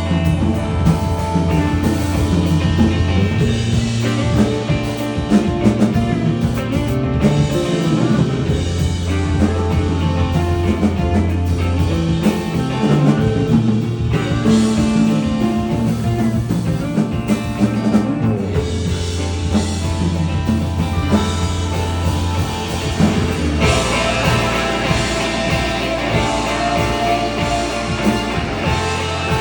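Rock band playing live: drum kit, bass and electric guitar, with the band getting fuller and brighter about three quarters of the way through.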